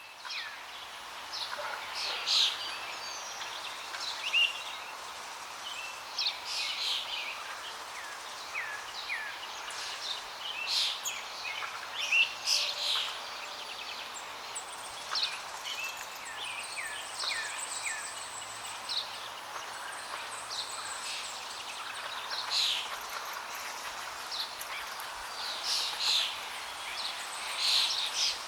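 Songbirds chirping and calling in frequent short notes over a steady rush of flowing water.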